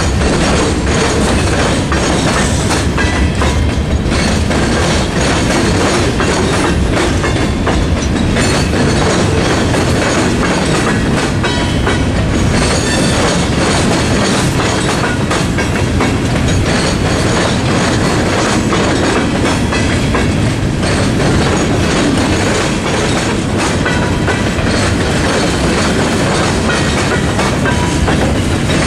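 Freight cars of a Norfolk Southern mixed freight train rolling steadily through a level crossing, their wheels clattering over the rail joints and crossing.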